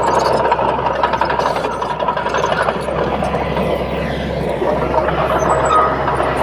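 Komatsu D31P bulldozer's diesel engine running steadily, with a thin whine that sets in about five seconds in and falls slightly in pitch.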